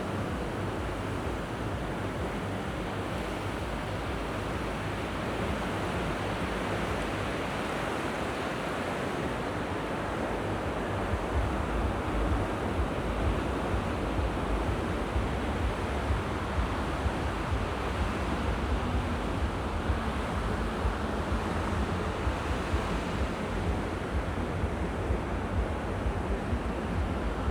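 Sea waves washing onto the shore in a steady hiss. From about a third of the way in, a low, uneven rumble of wind buffeting the microphone joins in.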